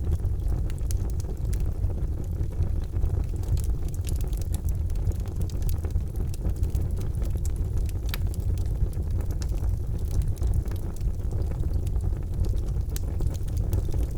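Charcoal fire burning: a steady low rumble with frequent small crackles and pops scattered through it.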